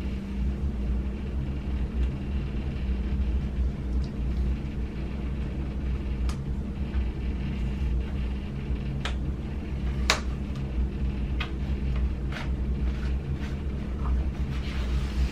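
A steady low hum with a handful of sharp clicks and taps, about six of them, spread through the middle and later part.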